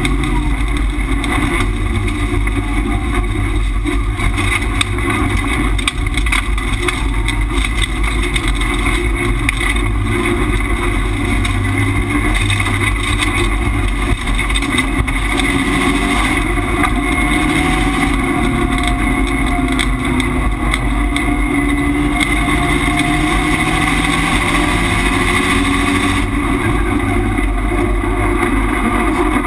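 Subaru Impreza rallycross car's turbocharged flat-four engine running hard at race pace, heard from inside the cabin, its pitch rising and falling as it accelerates and shifts gear.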